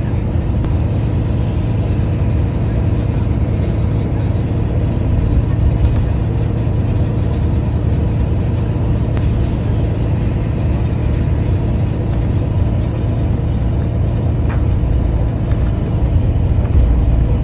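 Steady low rumble of a moving vehicle heard from inside the cabin: engine and road noise, with an even hiss of tyres on a wet road above it.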